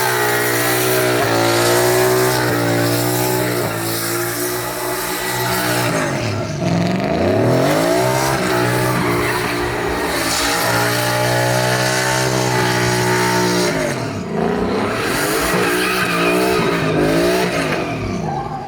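Truck engine held at high revs during a burnout, with the tyres spinning and squealing. The revs drop sharply and climb back twice, about a third of the way in and again near three-quarters.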